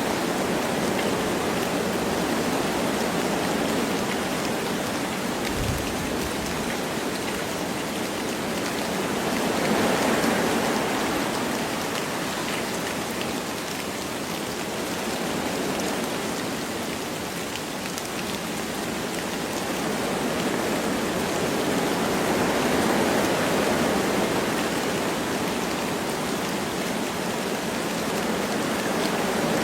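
Wind blowing through forest trees with light rain falling, a steady rushing noise that swells and eases every several seconds, with faint patter of drops.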